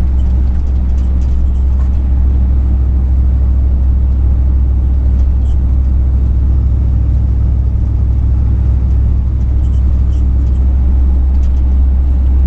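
Truck driving on the road: its engine and tyres give a steady, loud low drone that holds even throughout, with no gear changes or revving standing out.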